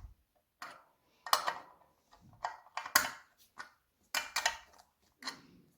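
A wrench tightening nuts on a bench seat's bolts, making short bursts of metallic clicking, about seven of them with quiet gaps between.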